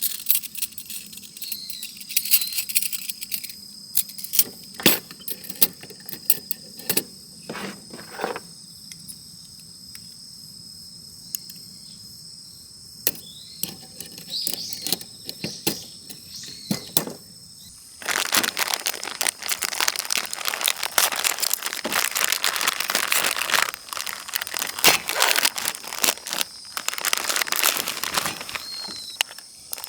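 Insects chirring steadily in two high tones. Scattered clicks and knocks are heard over them, and a dense stretch of crackling and rustling comes in the second half.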